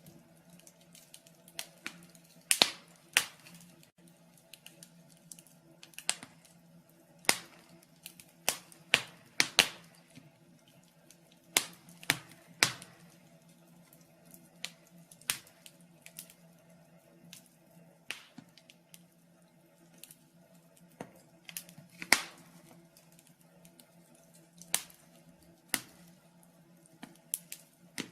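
Wood fire crackling in a fireplace: irregular sharp pops and snaps at uneven intervals, over a faint steady hum.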